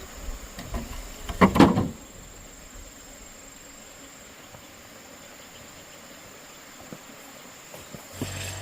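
Insects keeping up a steady high buzz, broken about one and a half seconds in by a brief loud noise; a low steady hum starts near the end.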